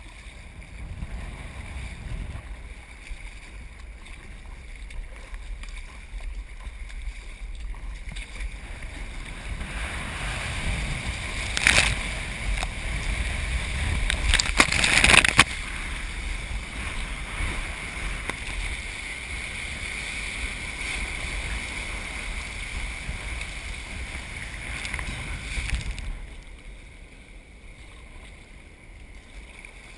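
Ocean surf whipped up by Hurricane Irene's swell, with wind rumbling on the microphone: a steady rushing noise. It has two louder rushes near the middle and eases somewhat near the end.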